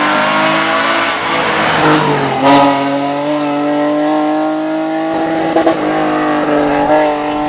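Hill-climb race car's engine under hard acceleration, rising in pitch, then an upshift about two and a half seconds in, after which it climbs slowly again and fades near the end.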